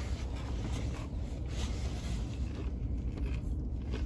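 Chewing a crunchy hard-shell taco and rustling its paper wrapper, over a steady low rumble inside a parked truck's cabin.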